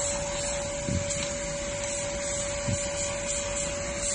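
Cordless lithium-battery handheld vacuum cleaner running steadily, a constant whine over its rushing airflow, with a couple of faint low thuds as it works.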